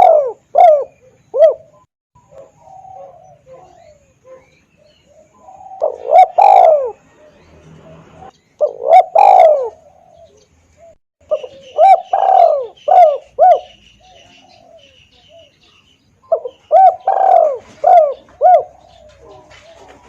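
Spotted dove (tekukur) cooing: bouts of several short coos, some with an arching note, repeated every few seconds, as a lure call for doves. A faint high twittering of a small bird runs beneath the middle bouts.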